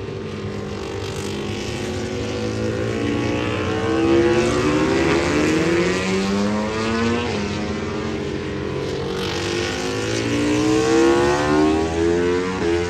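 Several racing motorcycles passing at speed, their engines climbing in pitch as they accelerate, several overlapping at once. Loudest about four seconds in and again near eleven seconds.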